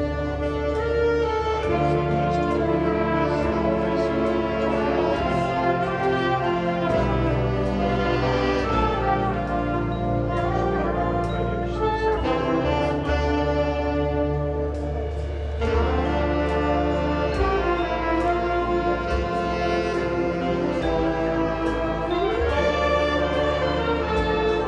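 An indoor winds ensemble performing, with brass and woodwinds playing sustained chords over low held bass notes.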